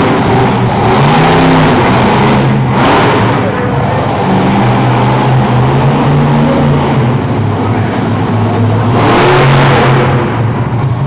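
Bigfoot monster truck's engine revving hard and loud, its pitch rising and falling, with louder surges near the start, about three seconds in and again about nine seconds in.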